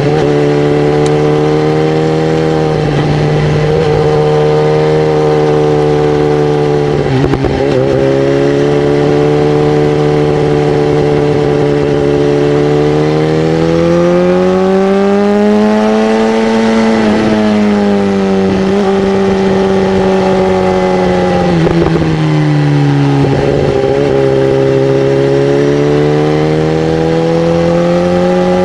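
Honda CB300R's single-cylinder engine running steadily under way. Its pitch climbs slowly to a peak about two-thirds of the way through and eases back down, with a few short breaks in the note.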